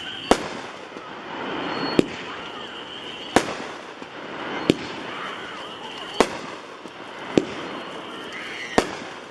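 World Class 'Honey Badger' 7-shot 200-gram aerial repeater cake firing, its shells going off as sharp reports about every second and a half, seven in all.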